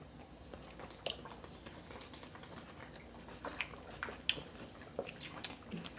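Faint eating sounds from a seafood boil: chewing with scattered small sharp clicks and crackles.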